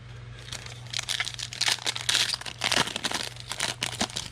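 Foil trading-card pack being torn open and crinkled by hand, a dense run of crackling and tearing that starts about half a second in.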